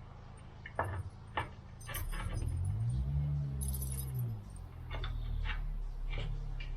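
Metal clinks and knocks from the mower engines and tools being handled, with a low rumble that swells and rises then falls in pitch midway.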